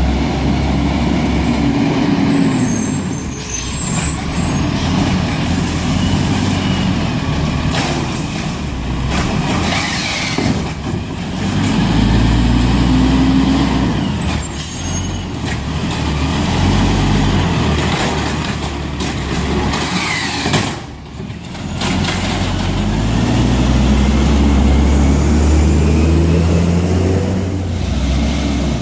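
A garbage truck's heavy engine runs and rises and falls in revs several times. Short air brake hisses come about three seconds in, again around fifteen seconds, and near the end.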